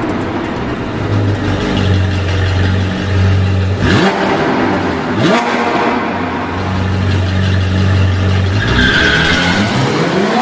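Range Rover Sport SVR's supercharged V8 pulling hard, with quick rises in engine pitch about four and five seconds in and again near the end.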